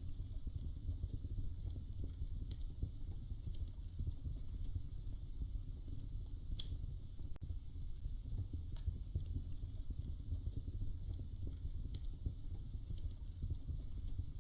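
Wood fire burning in a fireplace: a steady low rumble with scattered sharp crackles and pops every second or two.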